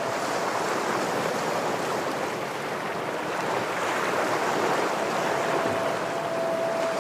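Ocean waves washing against shoreline rocks: a continuous rushing surge that swells slightly midway. About six seconds in, a thin steady tone enters over it.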